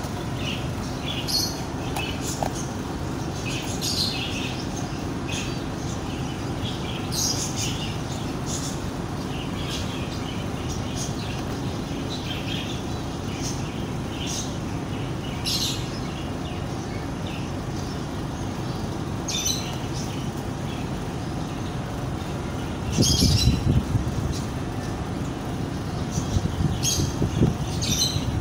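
Small birds chirping in short, scattered calls over a steady low rumble. Louder low rustling and knocks come about 23 seconds in and again near the end.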